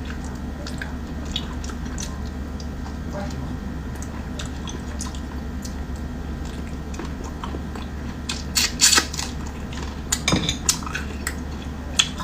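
Eating sounds of hermit crabs: small clicks and cracks of shell being bitten and handled, with clinks on a dish. Clusters of louder cracks come about eight to nine seconds in and again around ten seconds, over a steady low hum.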